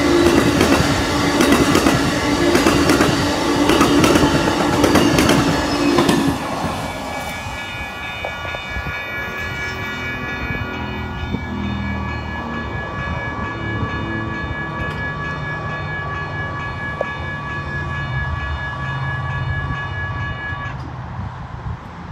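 Amtrak Superliner passenger cars rolling past over the crossing with a clickety-clack of wheels, the train sound ending about six seconds in. A Western-Cullen-Hayes electronic crossing bell rings on in a steady repeating pattern, a sick-sounding e-bell, and cuts off shortly before the end.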